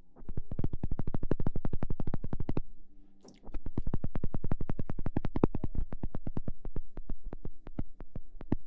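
Rapid, even tapping close to the microphone, about a dozen taps a second, with a short pause about three seconds in.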